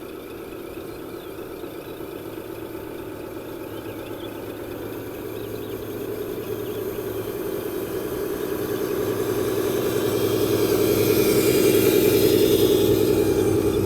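Radio-controlled construction vehicle running steadily, growing louder throughout.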